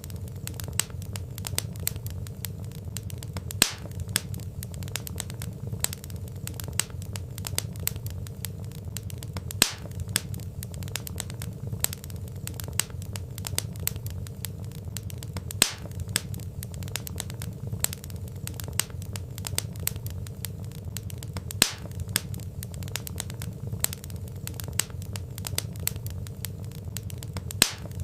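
Wood fire crackling: dense small crackles over a steady low rumble, with a louder pop about every six seconds.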